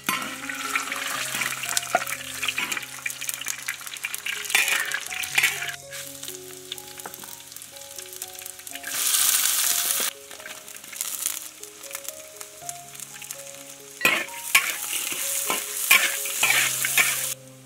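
Bamboo beetles, then Sichuan pepper and dried chillies, sizzling in hot oil in a wok, with a loud burst of sizzling about nine seconds in. Near the end the mix is stir-fried, with clicks of the spatula against the wok. Soft background music plays underneath.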